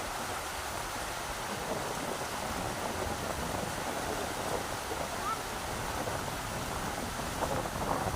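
Rushing river water, a steady noise, with wind buffeting low underneath.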